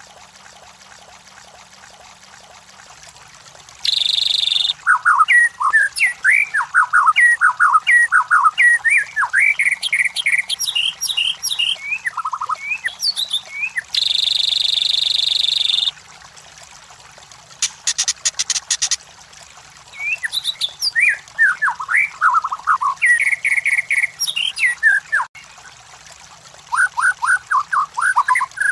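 White-rumped shama singing: phrases of quick, varied whistled notes with pauses between them, broken by two harsh buzzy notes of about two seconds each and a short high rattle.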